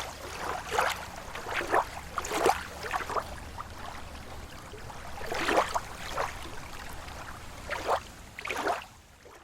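Small slow waves lapping against a lake shore: irregular soft splashes a second or two apart, the strongest about halfway through, fading away near the end.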